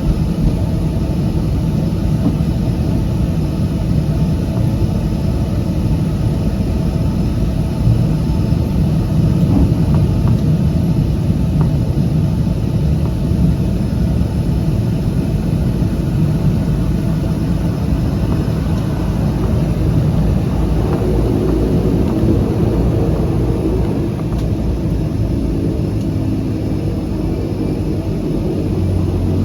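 Cabin noise of a DHC-6-300 Twin Otter's two Pratt & Whitney PT6A turboprop engines and propellers: a loud, steady drone with a propeller hum. About 24 s in the level dips slightly and the engine note settles into steadier tones, a power change.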